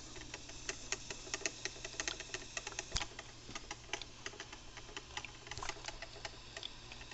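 Black & Decker drip coffee maker brewing a cleaning cycle: irregular crackling clicks and pops, several a second, as the water heats and sputters through, over a steady low hum.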